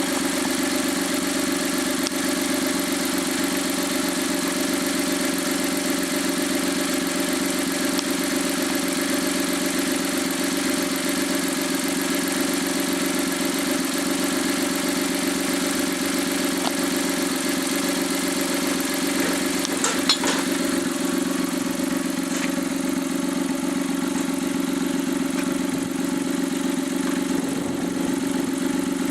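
Overhauled Suzuki K6A 660 cc turbocharged three-cylinder engine idling steadily during its post-overhaul test run. A single brief click about two-thirds of the way through.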